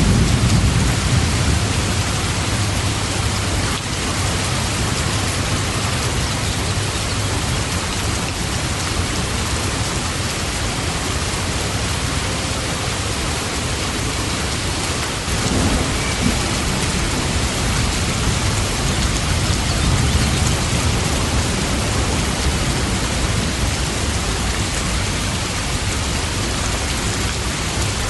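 Heavy, steady rain falling. A deep low rumble swells near the start and again about halfway through.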